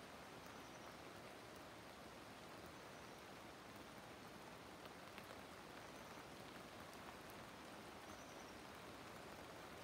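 Soft, steady rain falling, an even hiss.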